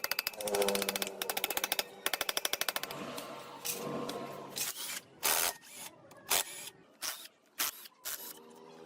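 A power tool rattling with fast, even strikes over a steady hum for about three seconds, then stopping and giving several separate short bursts of noise.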